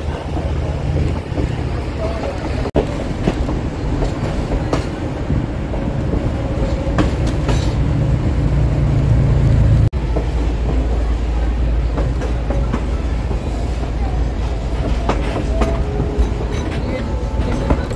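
1880 Train passenger car rolling along the track: a steady low rumble with scattered knocks from the wheels and car. The sound breaks off sharply about three seconds in and again near ten seconds, then the rumble resumes.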